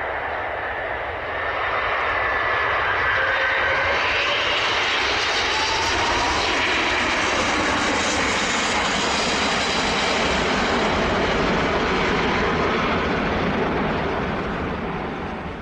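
Airbus A380 jet engines at high thrust during a late go-around, with a rising whine about two to four seconds in, then running loud and steady before fading near the end.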